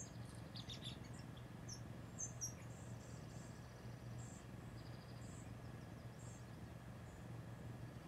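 Faint, high-pitched short chirps and tweets of small woodland birds, scattered and most frequent in the first few seconds, heard through a screen's speaker over a low steady hum.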